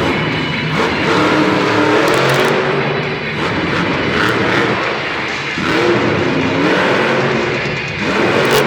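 Monster truck engine revving, its pitch rising and falling twice, with music playing underneath.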